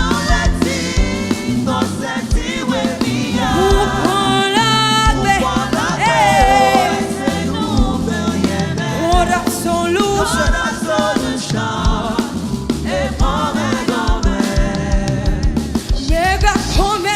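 Gospel worship music: a singer's voice gliding and bending over steady bass and drums.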